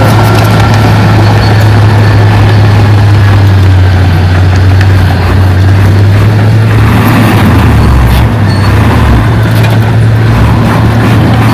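Heavy diesel engine of earthmoving machinery running steadily with a strong low hum; about two-thirds of the way through, its lowest note shifts and wavers.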